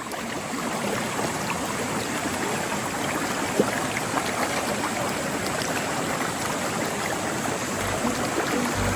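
Steady rush of running stream water, with small splashing ticks and one sharp click about three and a half seconds in.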